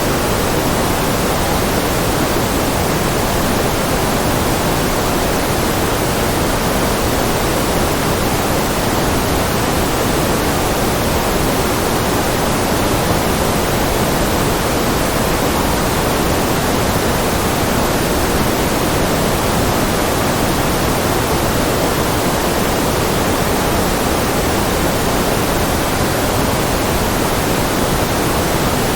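Steady synthetic noise track, a constant hiss heavier in the low and middle range than in the treble, more like pink noise than strict white noise. It does not change at all.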